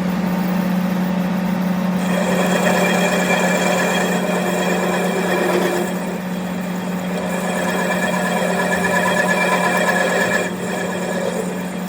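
A workshop machine running steadily with a constant low hum. A busier, higher whirring rides on top from about two seconds in and drops away near the end.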